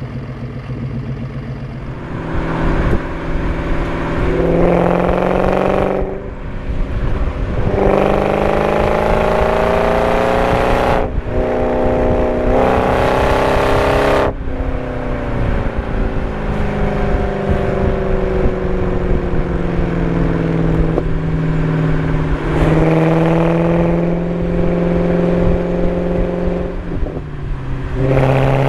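BMW 545i (E60) 4.4-litre V8 with a muffler-deleted, straight-piped exhaust, pulling hard through the gears of its manual gearbox. The engine note rises in three pulls, each cut short by a gear change, then falls slowly for several seconds as the car slows off the throttle. It pulls up again twice near the end.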